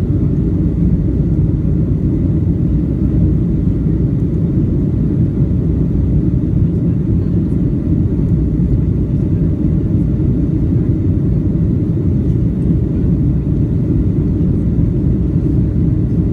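Airliner engine noise: a loud, steady low rumble that holds without change.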